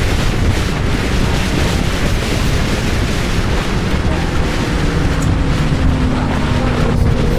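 Heavy wind noise on the microphone over running motorcycle engine sound, as heard while riding, with faint steady engine tones near the end.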